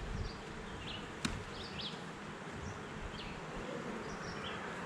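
Honeybees buzzing steadily around an open hive, with one sharp click about a second in.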